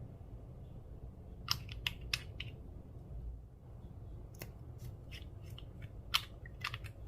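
Slime being worked by hand, giving a series of sharp clicks and pops in small clusters over a low steady hum.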